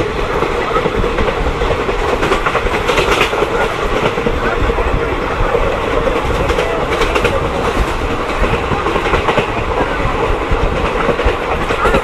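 Passenger train coach running along the track: a steady rumble and rattle with a constant hum, and the clickety-clack of the wheels striking rail joints at irregular intervals.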